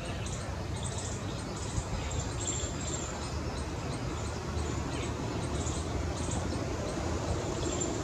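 Steady outdoor background noise with scattered faint, short high bird chirps.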